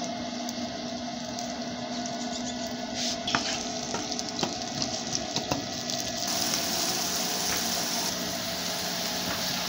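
Diced onion and green pepper sizzling in oil in a non-stick frying pan. A wooden spoon stirs and knocks against the pan a few times around the middle, and the sizzle turns brighter and hissier about six seconds in.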